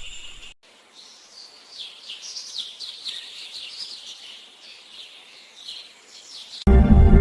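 Songbirds chirping, a run of quick, short, downward-sliding notes. Music starts abruptly near the end.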